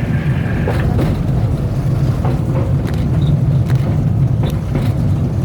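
Open-air tourist rail cart running along the track: a steady low rumble of its motor and wheels, with scattered clicks.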